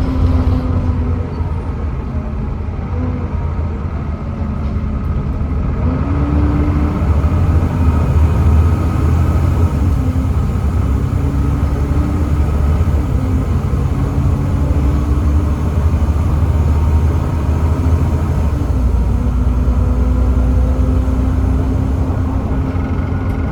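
Volvo B7TL double-decker bus running under way, its 7.3-litre Volvo D7C diesel giving a heavy low rumble. The engine note rises and falls in steps several times as the ZF Ecomat automatic gearbox changes gear.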